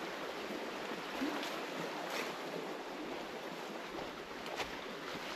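Steady rushing outdoor forest ambience, with a few faint soft ticks.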